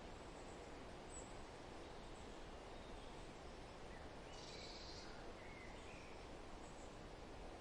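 Faint forest ambience: a steady wind-like rustle, with a few brief, distant bird chirps, the clearest about four and a half seconds in.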